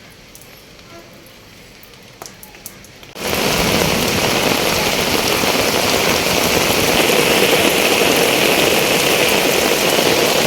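Heavy rain pouring down. A faint patter with a few ticks gives way, about three seconds in, to a loud steady hiss of downpour that starts suddenly and cuts off just as suddenly near the end.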